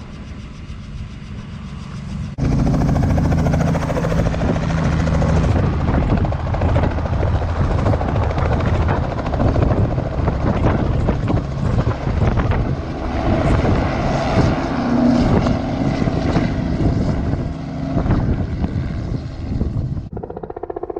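Helicopter running close by, its rotor blades chopping over a steady engine whine; the sound jumps to much louder about two seconds in and drops back sharply just before the end.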